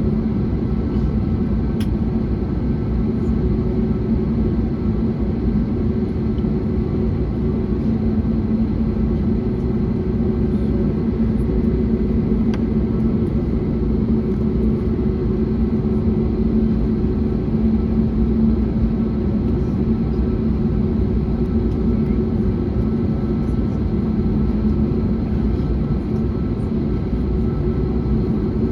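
Steady in-flight cabin noise of an Airbus A321neo with Pratt & Whitney PW1100G geared turbofans: a constant rumble of airflow and engines with a steady droning hum.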